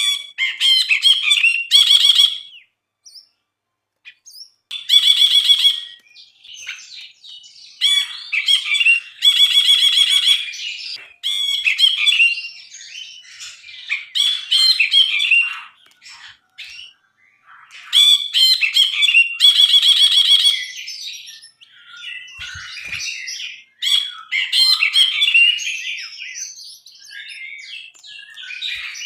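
Brinji (a bulbul) singing: loud, busy, varied song phrases a second or two long, separated by short pauses.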